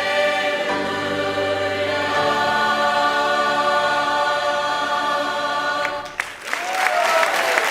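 High school choir singing a held chord that cuts off about six seconds in, followed by audience applause breaking out.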